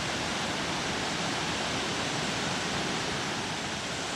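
Creek waterfall rushing, a loud, steady wash of falling water.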